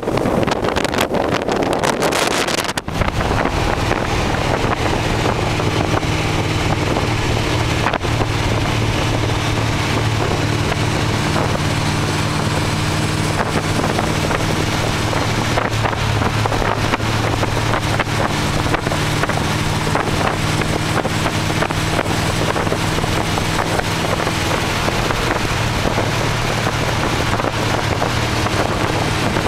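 Engine of a 1928 Ford Model A hot rod roadster running at a steady cruise, with wind rushing over the microphone in the open car. A louder rush covers the first three seconds or so, then it changes suddenly to a steady engine note.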